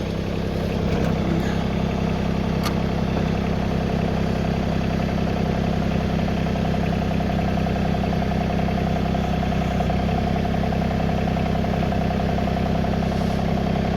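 Tractor engine running steadily, rising slightly about a second in and then holding an even drone.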